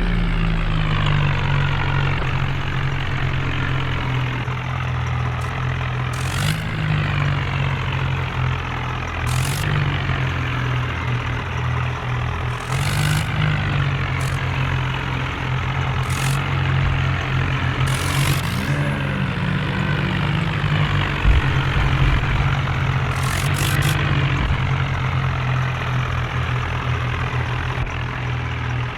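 Tractor diesel engine running steadily, its speed rising briefly every several seconds, with short hissing noises now and then.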